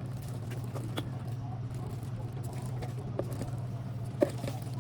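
A steady low hum under a few light clicks and taps, with one sharper knock about four seconds in.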